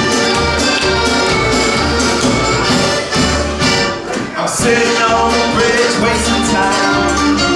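Live band playing an instrumental passage with accordion over a steady low beat; the music thins out briefly about three seconds in and comes back in full about a second and a half later.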